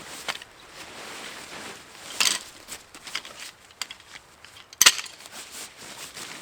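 Irregular rustling and handling sounds with scattered sharp clicks and knocks. The loudest is a single crisp knock near the end, with a crunchy burst a little after two seconds in.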